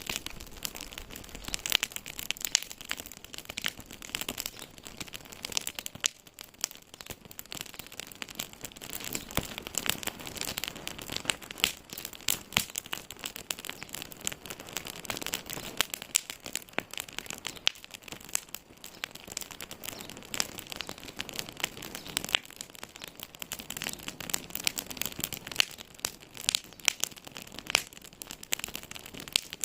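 Wood fire in a fireplace crackling, with dense, irregular pops and snaps over a soft hiss.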